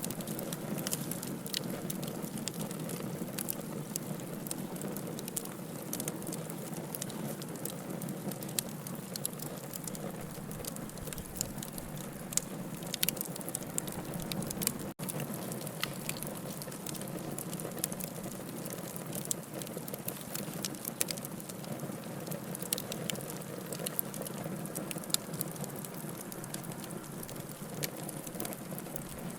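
Logs burning in a fireplace, crackling with many sharp pops and snaps over a steady hiss of flame. A split-second dropout comes about halfway through.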